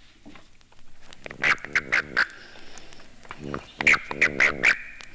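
Male southern toad (Bufo terrestris) giving its warning chirp with the warning vibration, the call a male makes when seized by another male: two bursts of short buzzy chirps, the second longer, with a steady high trill behind from about four seconds in.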